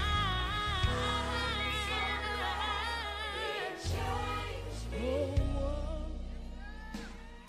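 Gospel song with sung vocals over a band with a steady bass line, fading out over the last couple of seconds.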